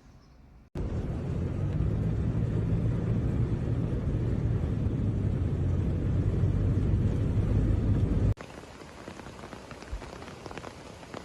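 Heavy rain pouring: a loud, steady rushing noise that cuts in under a second in and stops abruptly after about seven and a half seconds, followed by a much quieter stretch of outdoor rain noise with faint ticks.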